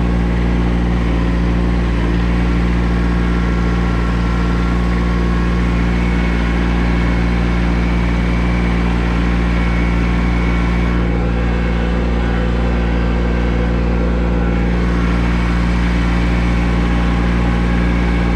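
Tractor engine running steadily at an even, unchanging speed.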